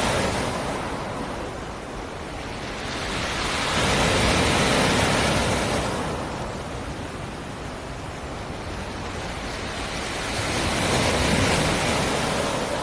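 Sea surf breaking on a rocky shore: waves swell and wash in about every six to seven seconds, three surges in all.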